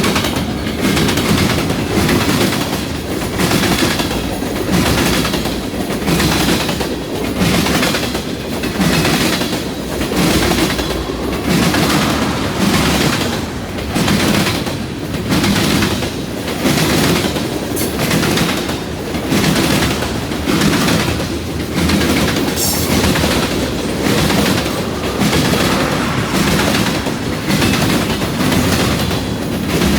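Long freight train's cars rolling past, their wheels clattering over the rail joints in an even beat of about one pulse a second.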